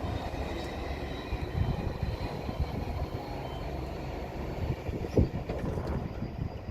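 High Speed Train with Class 43 power cars passing over a level crossing: a steady rumble of wheels on the rails, broken by many short irregular clatters.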